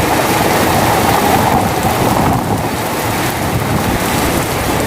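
Heavy rain pouring down in a steady, loud hiss, with a fluctuating low rumble of wind on the microphone.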